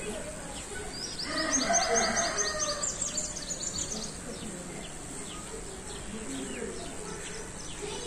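A small bird calling a quick run of high, repeated chirps for about three seconds, starting about a second in.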